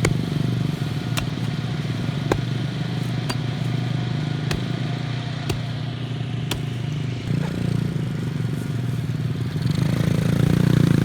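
Small mini dirt bike engine running steadily at low speed, growing louder near the end. Faint sharp ticks sound about once a second.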